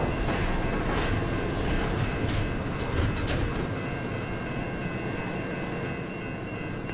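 Enterprise passenger lift travelling upward: a steady mechanical rumble from the car and its drive, with a few light clicks in the first half, easing off gradually towards the end.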